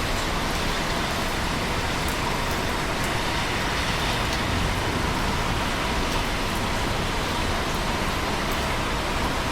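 Steady rain: a dense, even hiss with faint scattered drop ticks.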